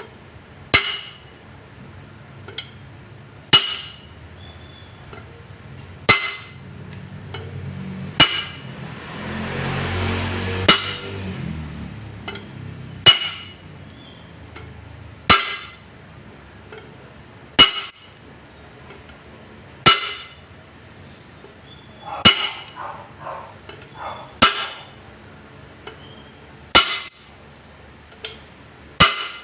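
Steady metal-on-metal hammer blows, about thirteen in all, one every two to three seconds, each with a short ring, driving a freshly grease-packed rear axle bearing into place. A low rumble swells and fades near the middle.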